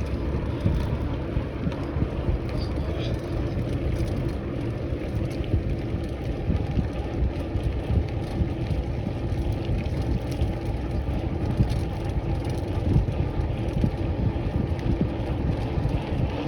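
Steady wind rumble on the microphone and road noise from a bike being ridden along a road.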